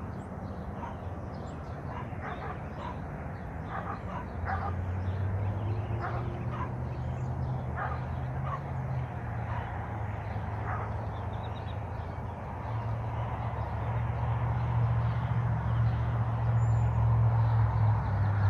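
Outdoor ambience of short, scattered animal calls over a low steady hum that sets in a few seconds in and grows louder toward the end.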